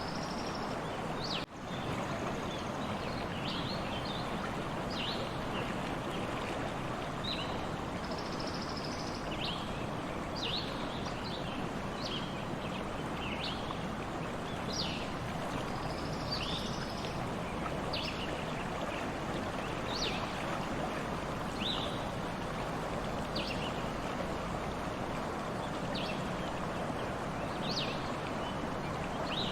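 Stream water running steadily, with short high chirps from small birds scattered throughout. There is a momentary drop-out about a second and a half in.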